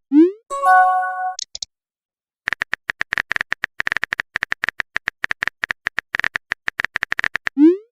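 Phone-keyboard typing clicks in quick runs, broken near the start by a chat-message sound effect: a quick rising pop, then a short chime of a few held tones. After a brief silence the typing clicks resume, and another rising pop begins at the very end.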